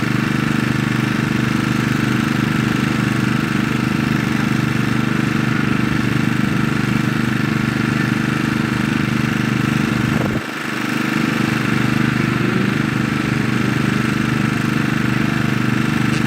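Motocross bike engine running at steady revs. About two-thirds of the way through it drops off briefly, then builds back up to speed.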